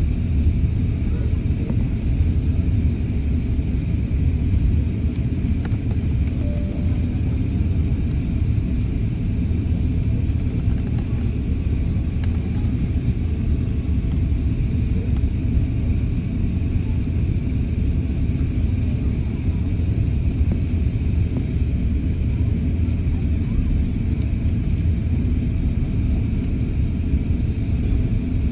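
Steady low rumble inside the cabin of an Airbus A350 airliner.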